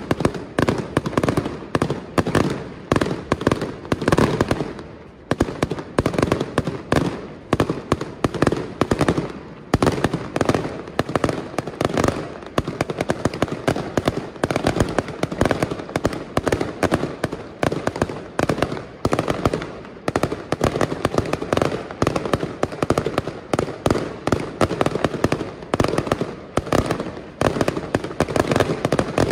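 Aerial firework shells bursting in a rapid, continuous barrage of bangs, with a short lull about five seconds in.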